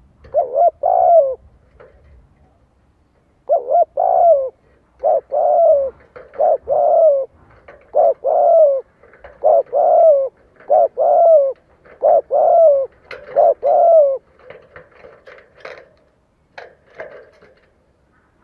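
Spotted dove cooing in a long run of short, repeated phrases, the 'gù' coo of a decoy male calling to provoke wild males to come and fight. The coos fade to fainter, scattered calls for the last few seconds.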